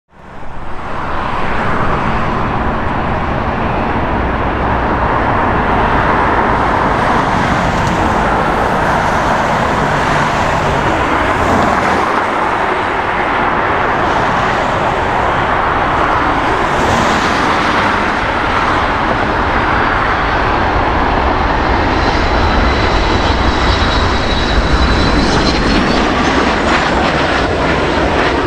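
Boeing 717-200's twin rear-mounted Rolls-Royce BR715 turbofans on a landing: a loud, steady jet rush. Near the end a thin engine whine rises in pitch.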